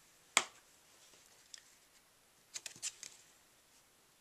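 Stamp and ink pad being handled on a tabletop while inking and stamping a sentiment: one sharp tap about half a second in, then a few light clicks near three seconds.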